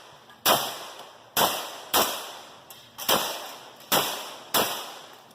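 Six gunshots fired in an uneven string, each shot ringing out with a short echo tail.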